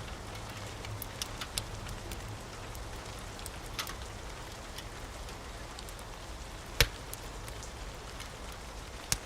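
Steady rain hiss with a crackling wood fire, small scattered pops over the rain. One sharp, loud pop comes about two-thirds of the way through and another near the end.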